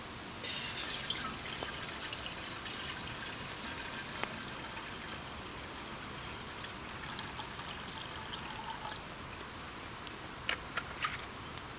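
Water being poured into a cooking pot, starting suddenly about half a second in and tapering off around nine seconds; a few sharp clicks follow near the end.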